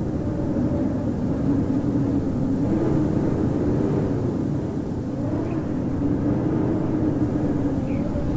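Winter wind howling: a steady roar with faint moaning tones that slowly rise and fall in pitch.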